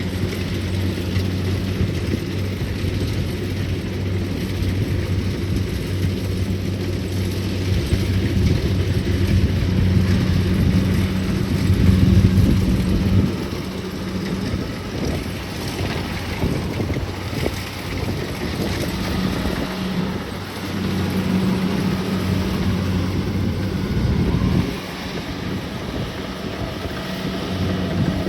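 Kubota DC-70 Plus combine harvester running while cutting rice, a steady engine hum over threshing and cutting noise, with wind on the microphone. The hum fades about halfway through, comes back, and drops again near the end.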